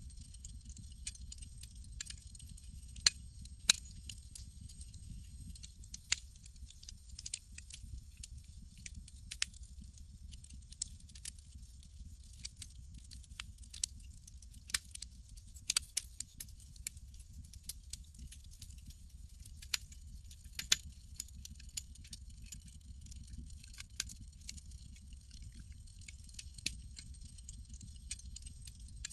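Campfire crackling, with sharp wood pops at irregular intervals over a low steady rumble.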